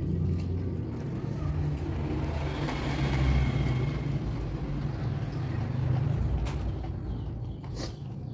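A motor vehicle passing over a steady low rumble, its hiss swelling to a peak about three seconds in and then fading, with two sharp clicks near the end.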